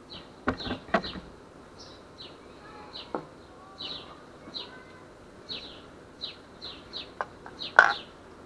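A bird chirping steadily, about two short high chirps a second, with a few light knocks of handling. Near the end, a lead sinker is set down on a glass-topped digital kitchen scale with a sharp clack, the loudest sound.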